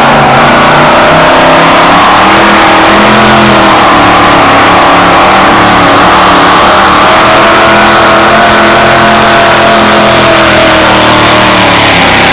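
Gas-engined two-wheel-drive pulling truck running loud at high revs, its pitch rising and falling slowly as it pulls.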